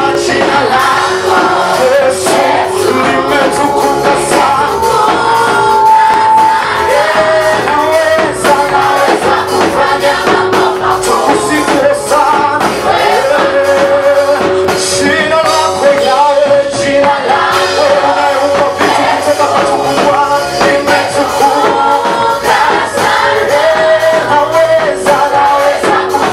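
A vocal group singing a Swahili gospel praise song, with a band and percussion backing.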